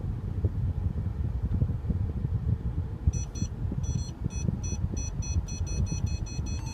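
Mercedes-Benz SL550 parking-sensor warning beeps, starting about three seconds in and repeating faster and faster as the car reverses closer to an obstacle while parking itself. A low rumble from the slowly moving car runs underneath.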